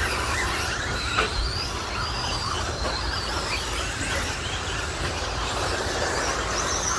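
Electric RC stadium trucks with 13.5-turn brushless motors whining as they race, the whines rising and falling in pitch as the trucks accelerate and slow, over a steady low rumble. A sharp knock about a second in.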